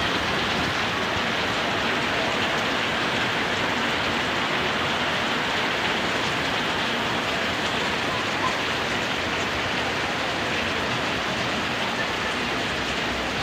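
Steady heavy rain falling, an even, dense hiss that holds level throughout.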